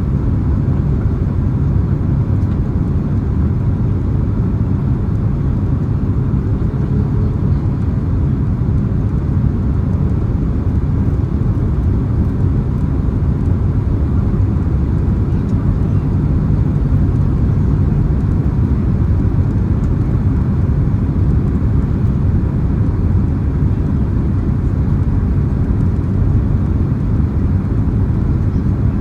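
Steady low rumble of a Boeing 767-300ER's engines and airflow, heard inside the passenger cabin, with a faint hiss over it.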